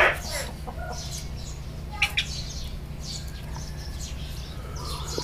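Birds chirping in short scattered calls, with a steady low hum underneath.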